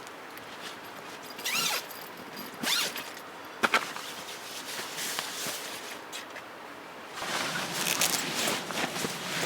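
Handling noises: two short zip-like rasps and a sharp click, then a longer stretch of rustling near the end.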